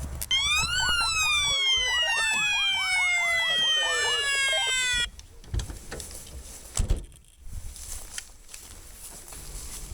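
A siren rises sharply, then winds slowly down in pitch over about four seconds with a fast warble, and cuts off suddenly about five seconds in. A few faint knocks follow.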